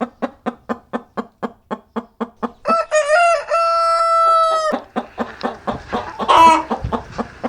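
Chickens clucking in a steady rhythm, about four or five clucks a second. A rooster crows once, for about two seconds, and a shorter loud call follows about two seconds later.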